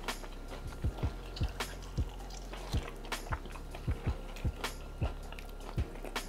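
People chewing and biting into sauced fried chicken wings, picked up close on clip-on mics, with background music playing underneath.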